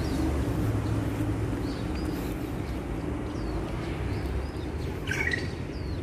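Wild birds chirping and calling in short, scattered notes, with a louder call about five seconds in, over a steady low background rumble.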